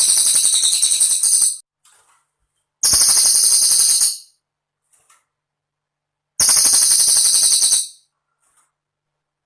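Cililin bird song used as a masteran training recording: rapid, very high-pitched jingling trills, each burst about a second and a half long, three bursts with short silent gaps between them.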